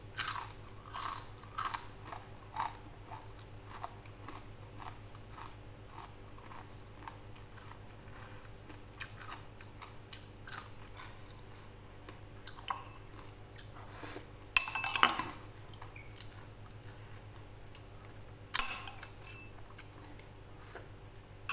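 Close-up crunching and chewing of crisp rempeyek, a fried peanut cracker. A quick run of sharp crunches in the first few seconds gives way to slower chewing, with two louder crackling bursts about two-thirds through and again near the end.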